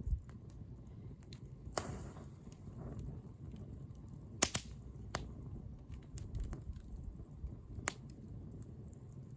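Wood bonfire crackling, with irregular sharp pops over a low rumble of the flames; the loudest pop comes about halfway through.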